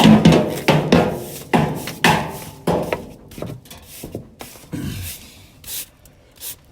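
Broom sweeping dust and debris across a floor in quick repeated scraping strokes, growing fainter near the end.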